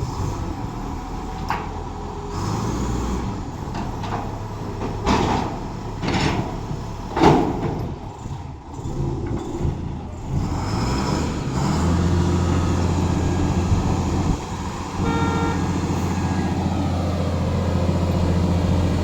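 Truck engine running, with a few short hissing bursts in the first half. From about two-thirds of the way in the engine settles into a steady, strong low drone, with a brief pitched tone partway through.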